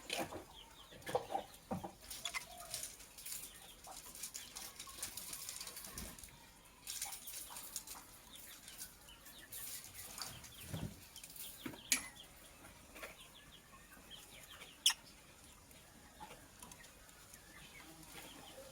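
Lovebird chirping in short, high calls amid rustling and wing flutters in its cage, with two sharp clicks in the second half.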